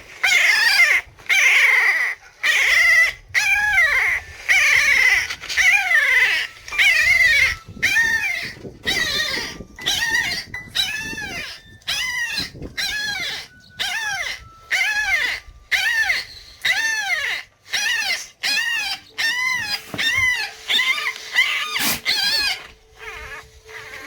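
A dog whining in a long run of high-pitched cries, each rising then falling, about one a second and a little quicker toward the end.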